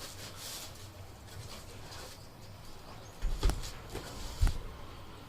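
Handling knocks from PVC dumbbell plates being moved and set down: a low thump a little over three seconds in, then two sharp knocks, the louder one about four and a half seconds in.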